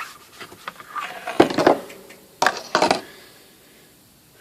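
Cloth rag wiping the typewriter's casing cover in a few quick rubbing strokes, about a second and a half in and again around two to three seconds in, with a few light taps before them.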